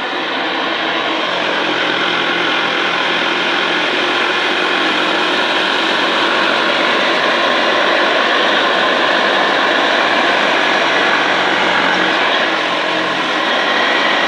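Hoover Senior 652 upright vacuum cleaner running steadily at full speed.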